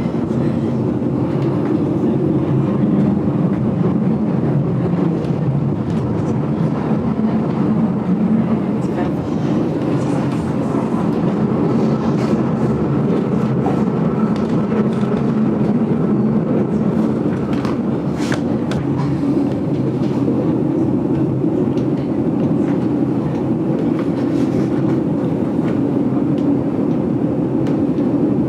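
GoldenPass Belle Époque train running along the track, heard from inside a carriage: a steady rumble with scattered clicks from the wheels and couplings.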